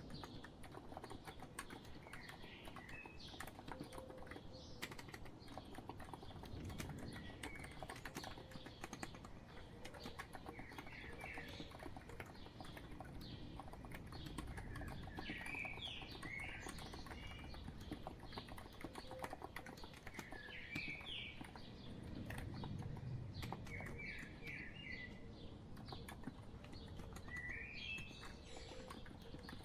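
Steady typing on a COX Empress electro-capacitive keyboard: a dense run of soft key presses throughout. Birds chirp in short, quick phrases every few seconds behind it.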